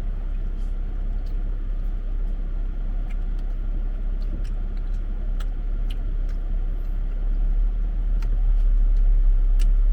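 Steady low rumble with faint scattered clicks, growing louder about eight seconds in.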